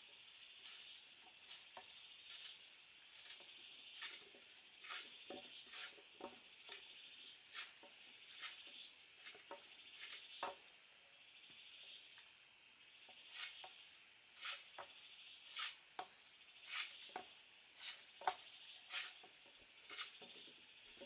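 Short, sharp strokes of hand-tool work on wood, roughly one a second and irregular, over a steady high chirring of insects.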